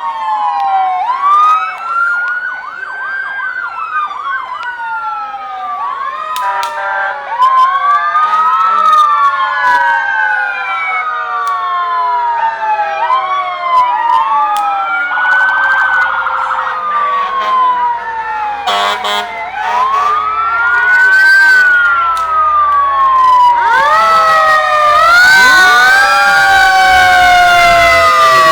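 Several emergency-vehicle sirens wailing at once, their overlapping pitches each rising quickly and falling slowly, over and over. They grow louder near the end, with a low rumble underneath.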